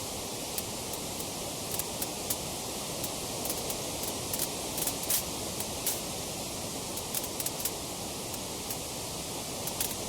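Wood fire crackling: a steady hiss with irregular sharp pops and snaps, several a second.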